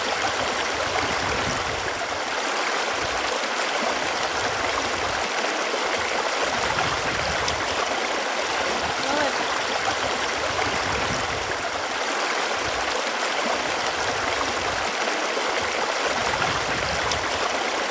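Running water flowing steadily, an even rush with small bubbling gurgles.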